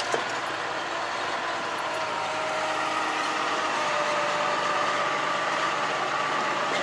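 Volvo VNL truck driving slowly on a gravel road: the engine runs steadily under a haze of tyre and road noise, with a faint tone rising slightly in the second half. There is a short click just after the start.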